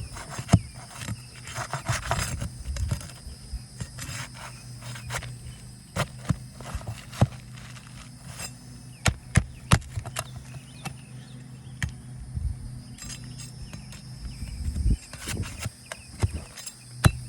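Irregular sharp clicks and metallic taps of nails being pried out of asphalt roof shingles, one after another.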